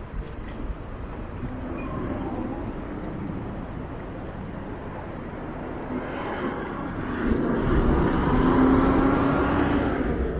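City street traffic: cars and other vehicles running past on a busy road. It grows louder in the last few seconds, with a low steady engine hum as a vehicle passes close.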